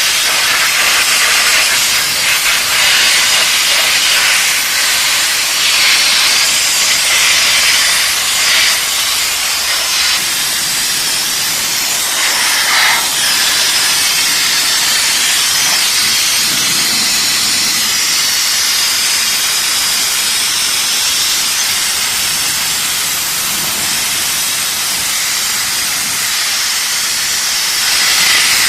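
Steam jet from an LPG-fired steam car washing machine, hissing steadily and loudly.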